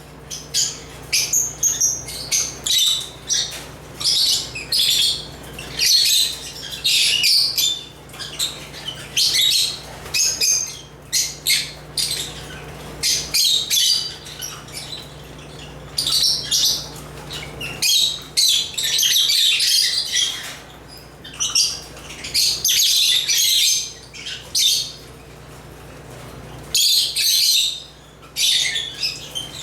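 African lovebirds (Agapornis) chirping and chattering in shrill bursts, one after another with short pauses, and a quieter spell of a couple of seconds near the end.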